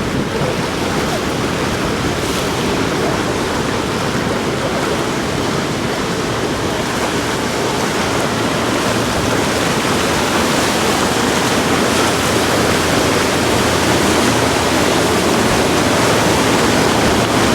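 Steady loud rush of surf and wind at an ocean inlet, a dense even noise that grows slightly louder toward the end.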